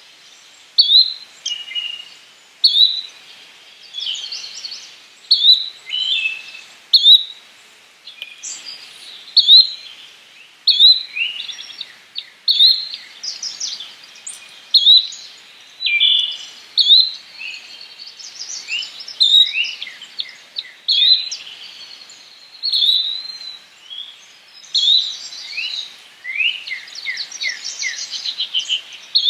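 Yellow-bellied flycatcher calling: a short rising whistled note repeated every second or two, with other chirps and sweeping notes around it, becoming a busier run of rapid notes near the end.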